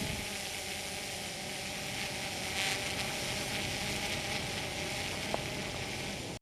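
Quadcopter drone's propellers and motors running in flight, a faint steady hum with several even tones.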